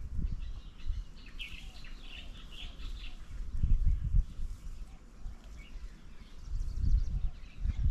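Small birds chirping and calling in a cluster of short high notes during the first few seconds. Bouts of low rumbling come and go, the loudest near the end.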